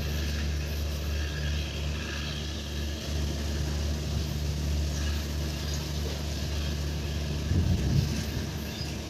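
Passenger train running away along the track, a steady low rumble and drone, with a brief louder low buffet near the end.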